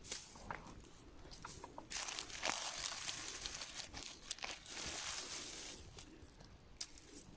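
Dry leaf litter and small twigs rustling and crackling, faint and irregular, with scattered sharp snaps, as the forest floor is worked through by hand and foot while mushroom picking.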